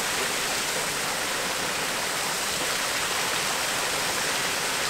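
Rushing water from a waterfall or fast stream, a steady, even rush with no change in level.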